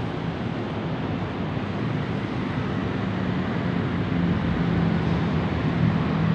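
Steady rumbling noise with a low drone underneath, slowly growing a little louder.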